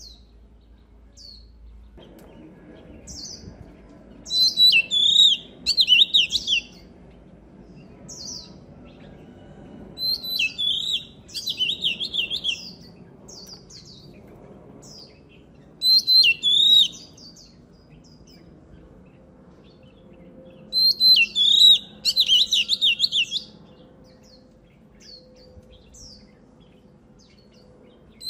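Oriental magpie-robin singing: four loud bursts of rapid whistled phrases, about five to six seconds apart, with single short call notes between them.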